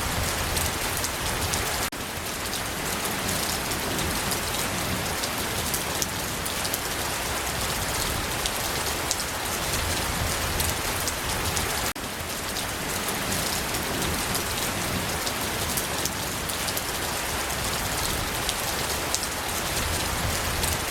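Steady rain falling, a dense even wash with individual drops ticking through it. The level drops abruptly twice, about ten seconds apart, and comes straight back.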